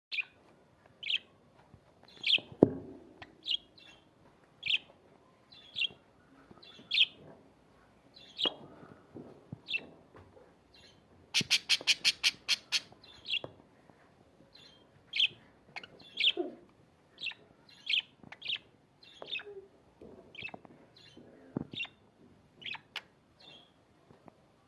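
Budgerigar chirping: short high chirps about once a second. About halfway through comes a quick run of about eight sharp clicks.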